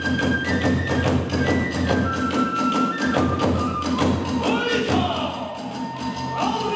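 Kagura hayashi music: a bamboo flute plays a held, stepping melody over rapid, steady drum beats. Near the end the drumming eases and a voice with sliding pitch joins in.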